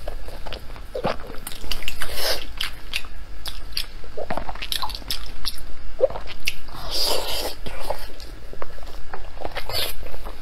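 Close-miked, wet chewing and biting of soft pork-skin rolls in chili oil, with irregular mouth smacks and clicks.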